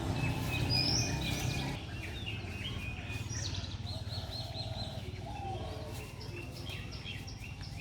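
Small birds chirping, with short repeated high notes and a few quick gliding calls, over a steady low background rumble.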